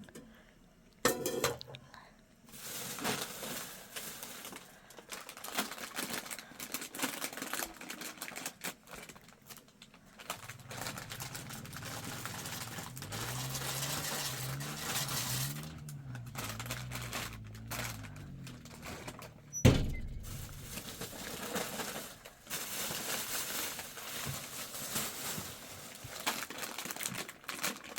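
Irregular rustling and crinkling handling noises with small clicks, a low wavering hum in the middle, and one sharp loud knock about twenty seconds in.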